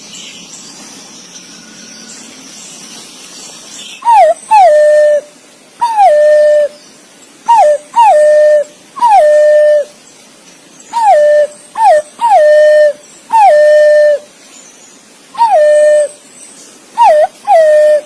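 Green pigeon (punai) calling to others of its kind: a series of clear, loud whistled notes starting about four seconds in, each sweeping down and settling into a held tone, some led by a short quick note.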